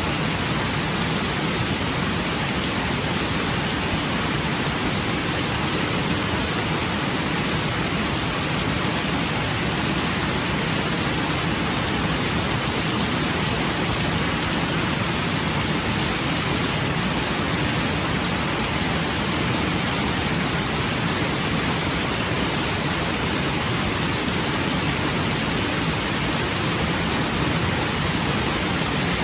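Rain falling steadily: an even, unbroken hiss with no distinct drops or thunder.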